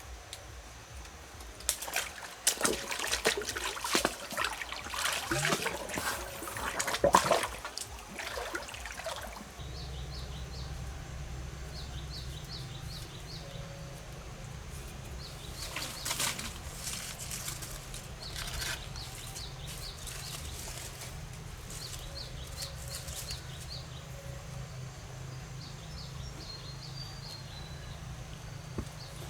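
Water splashing and sloshing in loud, irregular bursts for several seconds. Then a steady low rumble, with faint high ticks over it.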